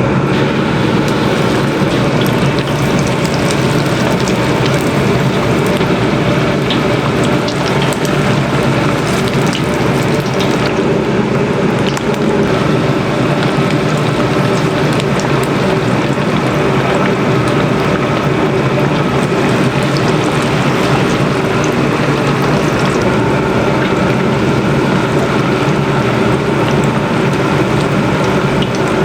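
Steady sizzling hiss of food deep-frying in hot oil, with scattered small crackles.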